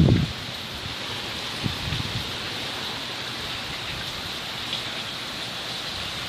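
Steady rain falling, an even hiss with no thunder or wind gusts standing out.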